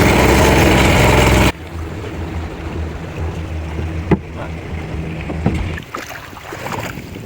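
A boat's motor running loudly, which cuts off abruptly about a second and a half in. A quieter low hum follows, with a couple of sharp knocks.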